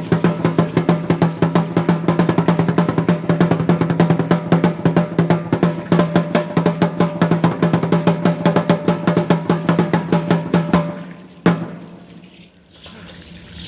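Fast, steady drumming for an Aztec Chichimeca dance son. It stops about eleven seconds in, one last beat lands just after, and the rest is quiet.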